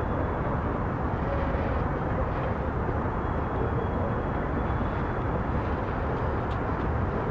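Steady low rumble of a CSX freight train of tank cars rolling slowly through the yard tracks, with a faint high whine for a couple of seconds in the middle.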